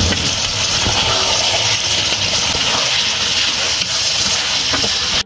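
Chicken curry sizzling and steaming in an aluminium pot over a high flame: a loud, steady frying hiss at the bhunai stage, where the masala is being fried down.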